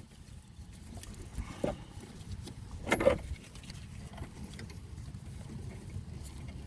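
Light metallic clinks and knocks as a brake caliper is picked up and handled, the loudest about three seconds in, over a low steady rumble.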